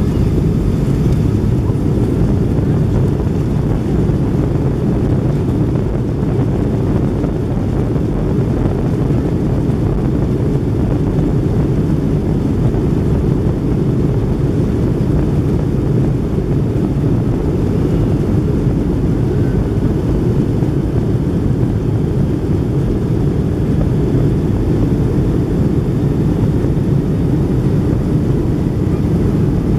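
Steady low rumble of a jet airliner's engines and rushing air, heard inside the passenger cabin in flight.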